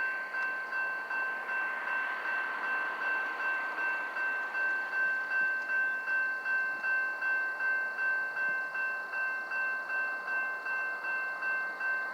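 Railroad grade-crossing bell ringing steadily, about two and a half strokes a second, as the train approaches; it cuts off suddenly at the very end.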